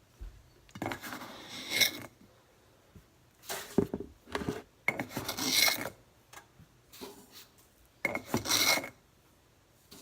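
Kool-Aid drink-mix packets being handled and torn open: about five separate bursts of rustling and rasping tearing, with short quiet gaps between them.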